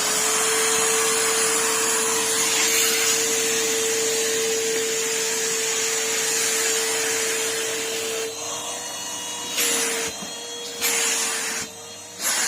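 Numatic Henry cylinder vacuum cleaner running, with a steady motor whine over rushing air, just after being switched on. From about eight seconds in, the suction sound drops and surges several times.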